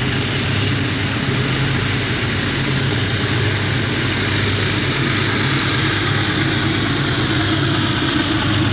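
Diesel freight locomotives running, a steady low engine drone under a broad rumble.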